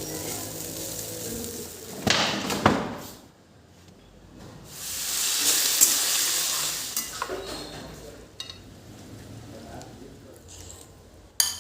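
Food sizzling in a hot pan while a spoon stirs and knocks against it. A hissing sizzle swells for a few seconds in the middle, and a sharp clink comes near the end.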